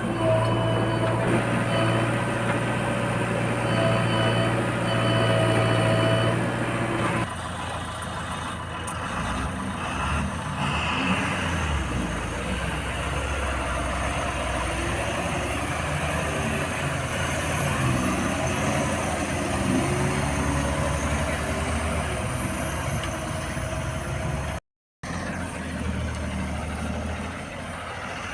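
Heavy diesel engine of earth-moving machinery running: a steady note for about seven seconds, then after an abrupt cut a lower engine note that rises and falls as the machine works, with a brief dropout near the end.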